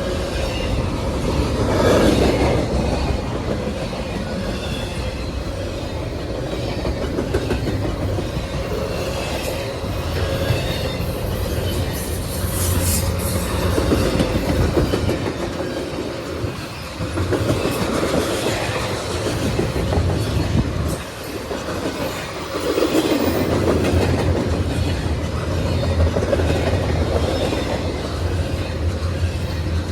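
CSX freight train's cars rolling past a crossing, wheels clacking steadily over the rail joints, with a thin steady tone running underneath.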